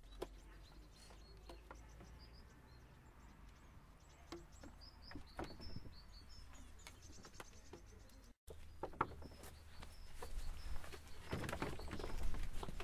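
Small birds chirping faintly and intermittently over a steady low outdoor rumble, with scattered soft knocks that grow louder near the end.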